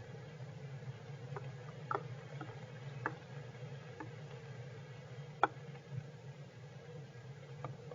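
Irregular sharp ticks of rain dripping onto the shelter in heavy rain, about one a second and uneven, over a steady low hum.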